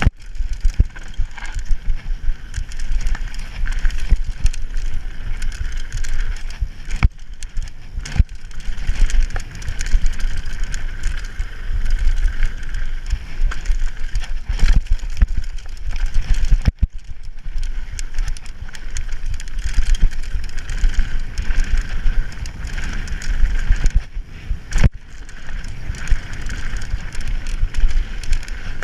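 Mountain bike riding down a bike park trail: a continuous low rumble of tyres and frame over rough dirt, with a steady higher buzz and scattered sharp clunks and rattles over bumps.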